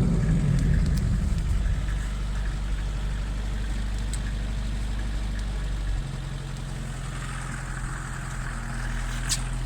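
Lada Niva engine idling steadily, its revs easing down over the first couple of seconds and its note changing slightly about six seconds in.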